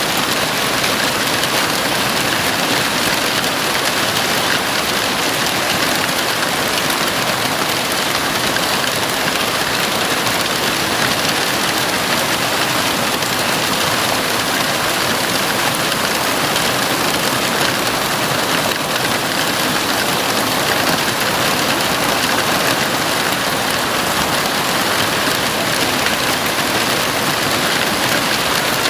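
Heavy rain on a house roof: a dense, steady downpour without let-up.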